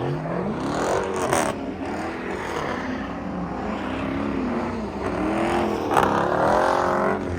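V8 muscle-car engine revved up and down several times, its pitch climbing and falling; the last and loudest rev, about six seconds in, is held high briefly before dropping.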